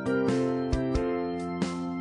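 Instrumental background music: a string of separately struck notes that ring on over sustained tones.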